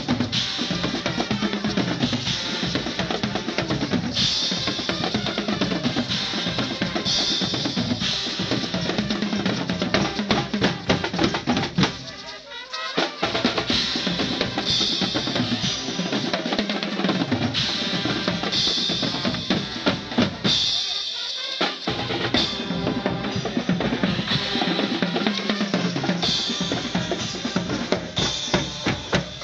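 A band's drums playing a driving rhythm, with snare and bass drums striking steadily. The playing breaks off briefly twice, about 12 and 21 seconds in.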